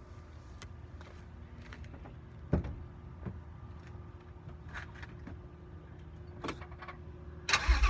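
Faint low hum with scattered clicks and a sharp thump about two and a half seconds in, then near the end a Ford Shelby GT350's 5.2-litre flat-plane V8, fitted with the resonated exhaust, bursts into life with a loud start.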